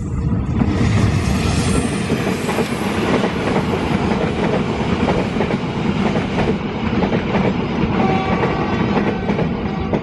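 Diesel locomotive and its passenger carriages passing close by: a loud rush of train noise swells about half a second in, then steady clatter of wheels over rail joints. A thin wheel squeal comes in near the end as the carriages run round the curve.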